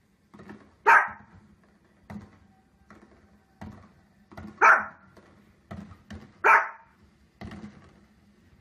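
A small dog barking three times, with sharp, loud single barks about a second in, near the middle and about two seconds later. Fainter short thuds fall between the barks. The dog is barking at a fireworks broadcast on the television.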